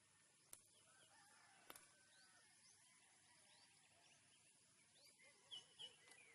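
Near silence, with faint scattered bird chirps and a couple of soft clicks.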